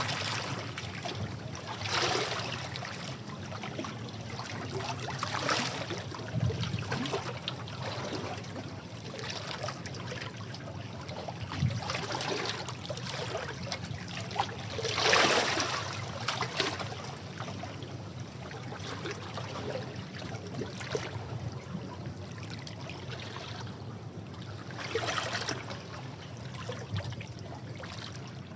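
Sea waves washing over rocks: a steady rush of water with swells every few seconds, the largest about halfway through.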